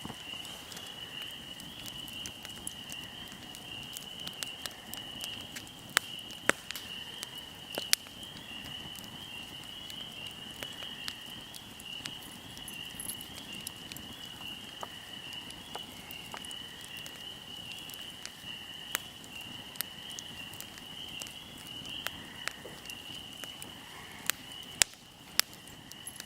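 Fire crackling, with sharp pops scattered irregularly and a few louder ones about six to eight seconds in and near the end, over a steady high-pitched chirring in the background.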